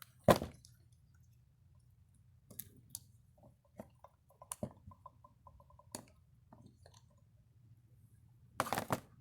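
Scattered knocks and clicks of things being handled, the loudest just after the start and a quick cluster near the end, with a short run of faint, evenly spaced pips a few seconds in.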